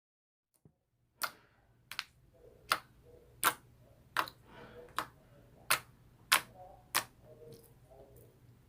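A series of sharp clicks, about one every three-quarters of a second, nine in all, over a faint steady low hum that starts with them.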